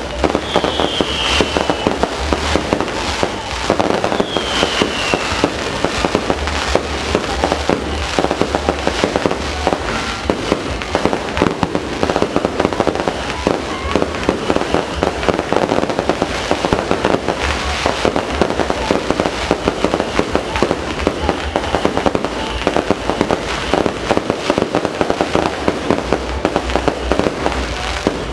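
Fireworks going off continuously, a dense stream of crackling pops and bangs, with two short falling whistles in the first five seconds.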